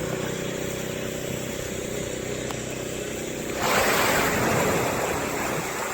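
An engine running with a steady, even hum. About three and a half seconds in, a sudden loud rush of splashing water breaks in and slowly fades.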